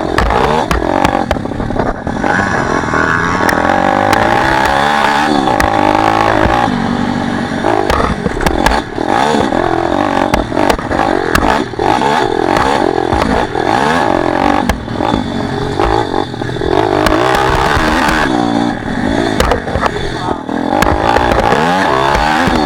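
Pitbike's single-cylinder four-stroke engine being ridden hard, revving up and falling back over and over, with knocks and rattles from the bike throughout.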